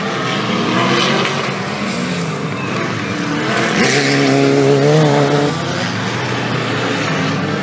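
4WD off-road race vehicles' engines revving hard on a dirt course, over a steady wash of engine and tyre noise. One engine note holds high for a couple of seconds past the middle, then falls away.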